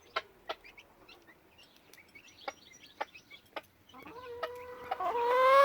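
A chicken calling: after a few quiet seconds of scattered sharp taps, one long drawn-out call rises in pitch and grows loud near the end.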